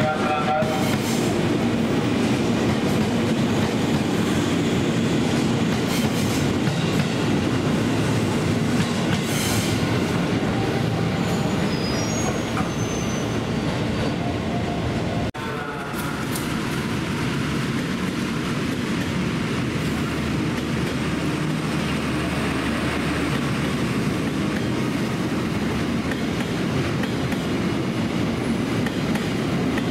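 Trains running through a station: a former JR East 205-series electric commuter train moves along the platform with steady wheel-and-rail noise. After a sudden break about halfway, a long-distance passenger train's coaches roll past with the same continuous rail noise.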